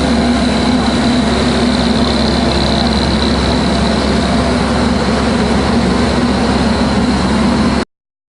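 A heavy engine idling steadily and loudly close by, with a low hum and a thin high whine, cutting off abruptly near the end.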